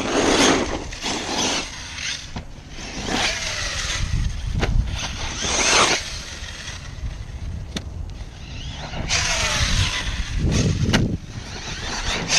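Brushless motor of a large electric RC truck whining up and down in pitch as it is driven in bursts, with rough noise from the truck running over the ground between.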